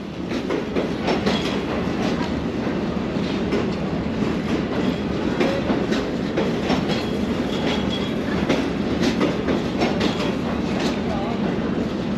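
Steady rumble of railway machinery beside a standing passenger train, with scattered light metallic clicks and knocks.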